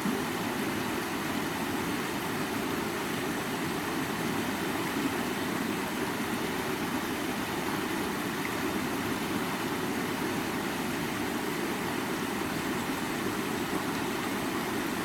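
Creek water running over rocks: a steady, even rush of flowing water with no breaks.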